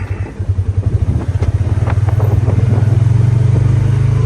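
A vehicle's engine running with a fast, even pulse, growing louder about a second in and then holding steady, with light clattering over it.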